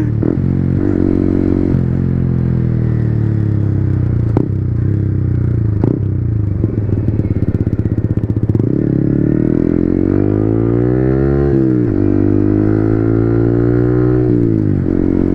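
A Yamaha MT-15's 155 cc single-cylinder engine running through a Yoshimura Alpha slip-on muffler with its silencer insert fitted, heard while riding. The revs fall at first as the bike slows, then climb twice, each climb ending in a sudden drop as it shifts up under acceleration.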